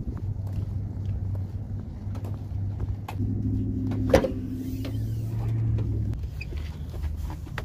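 A vehicle engine running steadily nearby. About four seconds in there is one sharp clack as a Jeep's hood is unlatched and lifted.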